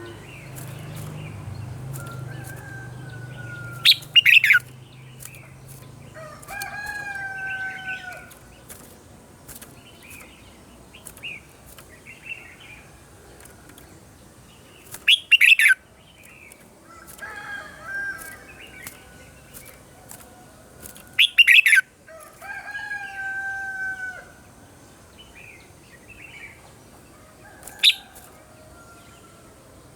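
Red-whiskered bulbul singing: short whistled phrases that slide slightly downward, repeated every few seconds. Four loud, sharp, brief bursts break in, which are the loudest sounds.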